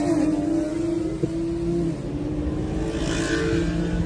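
Car engine running at fairly steady revs just after a hard acceleration, a steady drone that eases slightly in pitch over a low road rumble.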